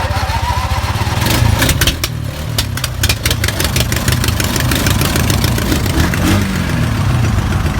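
Old tractor engine turning over on its starter off a jump-start battery, a steady rhythmic churning, with a burst of sharp pops and clicks in the first few seconds as it tries to catch.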